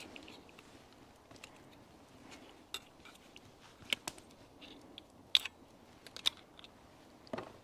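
Mini 4-in-1 folding metal cooking utensil being handled and unfolded: a few sharp, scattered clicks and taps, one every second or so.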